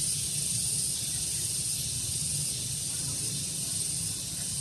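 Steady outdoor daytime ambience: a constant high-pitched hiss with a low rumble of breeze, and a few faint bird chirps.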